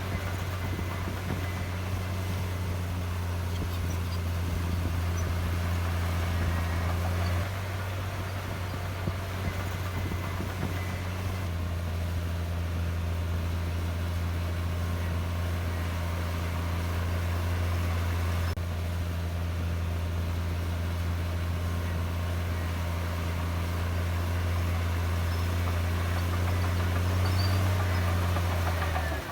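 Heavy diesel engine of earthmoving equipment running steadily at a low, even pitch. The note shifts slightly a little over seven seconds in and again around eleven seconds in.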